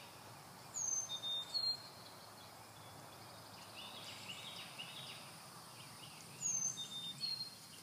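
A songbird sings the same short whistled phrase twice, about six seconds apart: a high falling note and then a few shorter, lower notes. Faint, steady background chirping runs underneath.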